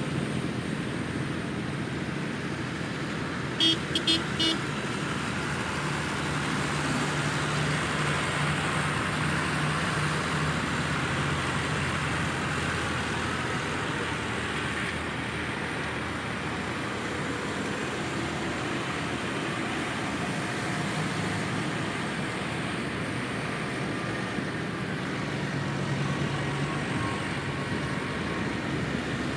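Tractor and vehicle engines running steadily as they drive along, with three short horn toots about four seconds in.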